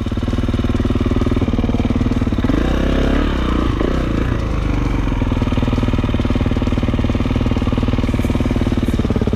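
Dirt bike engine running at low revs with a steady rapid pulse, its revs rising and falling briefly about three seconds in.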